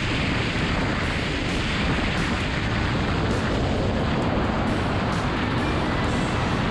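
Steady roar of wind and engine noise from a moving motorcycle, the rush of air on the camera's microphone dominating.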